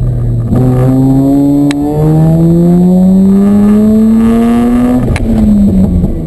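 2005 Mazda RX-8's two-rotor rotary engine under hard acceleration, heard from inside the cabin: its note climbs steadily in pitch for about three seconds, then drops about five seconds in as the throttle comes off.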